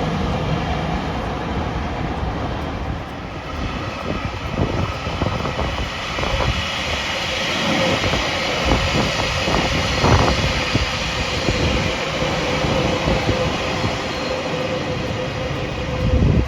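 A train running by: a steady rumble and hum, with a run of sharp clacks in the middle.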